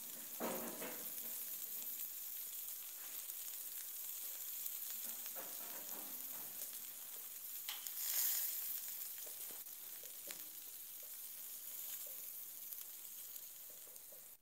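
Prawn and vegetable kebabs sizzling in a grill pan on the stove: a steady frying hiss that swells briefly about eight seconds in.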